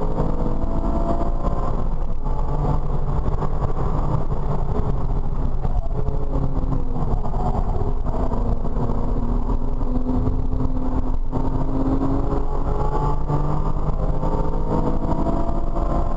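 Porsche Cayman R's 3.4-litre flat-six heard from inside the cabin, revving up through the gears. The pitch climbs repeatedly and drops briefly at the gear changes, about two, six and eleven seconds in, over steady road and wind noise.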